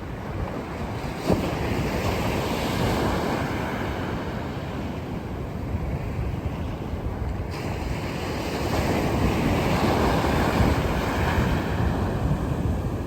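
Sea waves surging and breaking onto the shore in repeated swells, with wind buffeting the microphone. A surge comes in sharply a little over a second in, and the wash grows louder again toward the later part.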